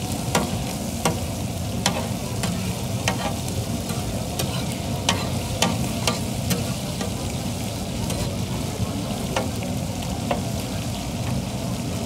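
Cubes of bull liver sizzling on a large flat metal griddle, with a metal spatula scraping and clacking against the griddle at irregular intervals as the pieces are stirred and turned.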